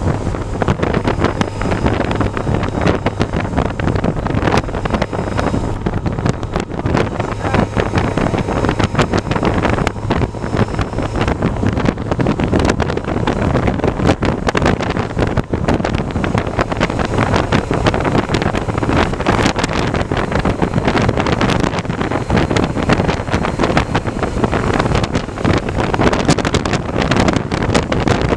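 Heavy wind buffeting on the microphone of a rider on the move, a dense, gusty rush that never lets up, over a faint steady low drone.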